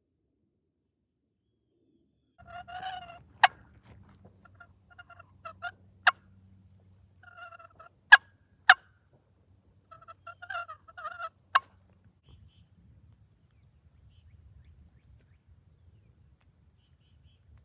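Turkey calls in four short bursts of pitched, yelping notes, about three seconds apart. Loud sharp clicks fall among them, five in all.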